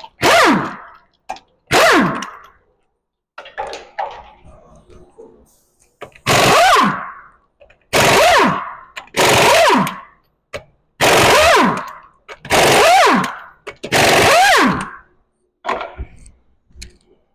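Impact wrench running in short bursts of about a second, eight times with pauses between, its whine dropping in pitch as each burst ends, as it spins lug nuts off a wheel. Small clinks sound in the gaps.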